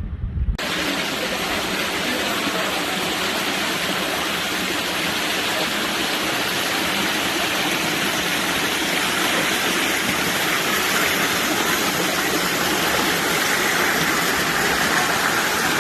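Waterfall rushing with a loud, steady roar of falling water that starts abruptly about half a second in.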